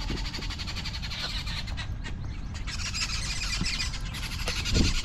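Birds calling without a break, a dense chatter of rapid high-pitched notes, with a low thump just before the end.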